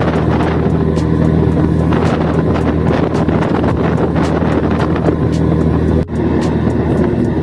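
Steady low engine drone of a tour boat under way, with wind buffeting the microphone. The sound drops out for a moment about six seconds in.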